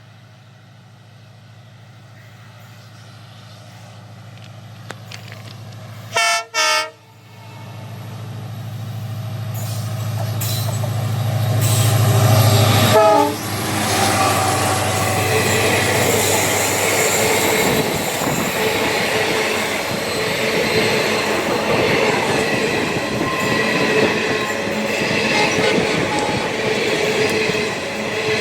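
Diesel locomotive approaching with its low engine drone growing louder, sounding two short horn blasts in quick succession about six seconds in and a brief third one around thirteen seconds. It then passes, and the coaches' wheels clatter over the rail joints with some squealing.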